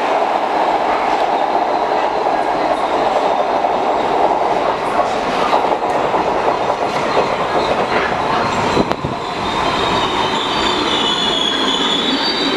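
MARTA rapid-transit train of CQ310/CQ311 rail cars running along the track, a dense steady rumble broken by sharp wheel clicks over the rail joints. Near the end a high wheel squeal sets in.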